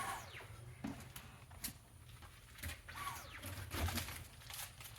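Cordless Dyson stick vacuum motor whining down as it stops at the start, then a brief second burst of the motor about three seconds in that also falls away. Plastic clicks and knocks come from the vacuum being handled and checked.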